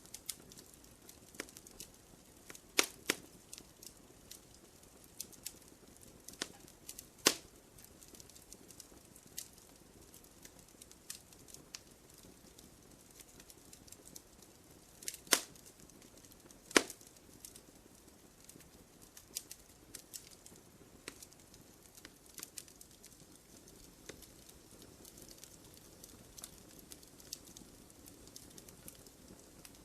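Wood fire crackling in a fireplace: scattered, irregular pops and snaps over a soft hiss, with a few much louder pops now and then.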